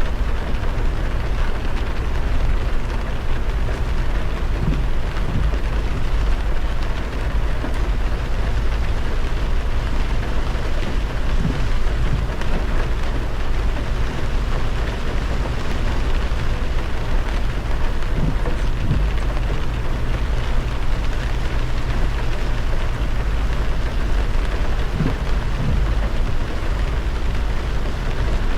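Steady heavy rain on a moving car, over a constant low road rumble and the hiss of tyres on the wet road.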